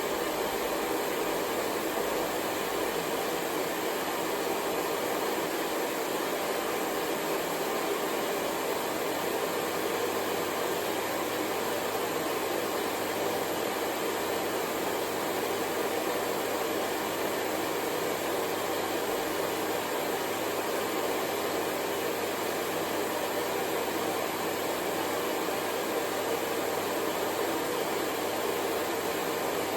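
Hair dryer blowing steadily: an even, unchanging noise with most of its weight in the lower middle range.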